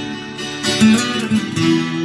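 Instrumental music on a strummed acoustic guitar, with the chord changing about three-quarters of the way through.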